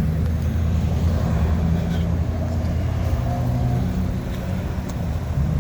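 A motor vehicle engine idling steadily: a low, even hum.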